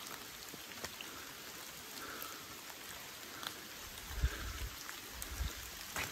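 Light rain pattering on forest leaves, a steady hiss with scattered drip clicks. From about four seconds in, low thuds of footsteps on the leaf-littered forest floor.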